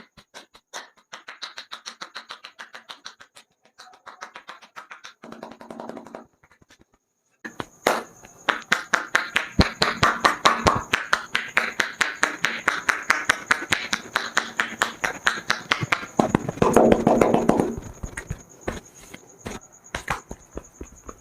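Rapid percussive massage strokes: a barber's hands chopping and slapping on a client several times a second. The strokes come in quieter runs at first, pause briefly, then go on louder and faster from about seven seconds in.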